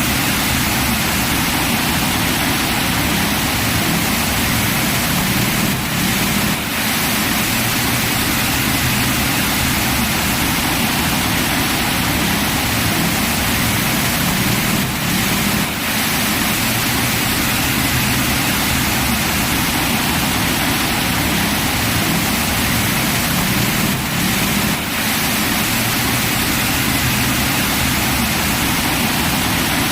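Heavy rain falling steadily, a dense even hiss, with brief short dips in level about every nine seconds.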